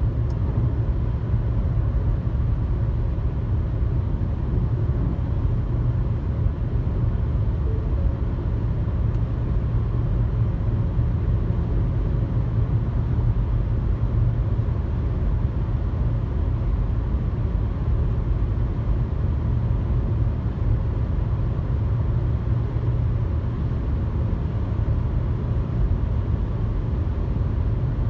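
Steady low road and engine rumble inside a car cruising on a highway, with no change in pace.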